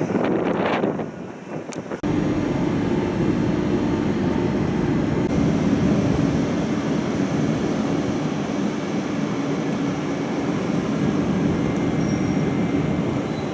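Train running with a steady rumble and hum, cutting in abruptly about two seconds in after a moment of wind buffeting the microphone.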